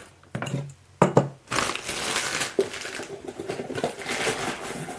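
Packaging being opened by hand: a few knocks, then from about a second and a half in a steady crinkling and crackling of wrapping, as a new cylinder top-end kit is unboxed.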